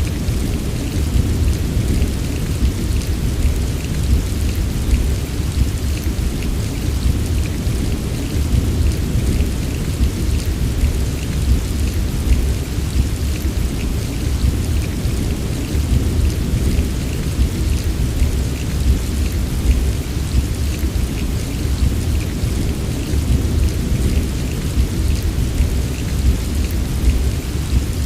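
Steady heavy rain, with a constant deep rumble underneath and faint scattered drop ticks, as in a rain-and-thunder sleep recording.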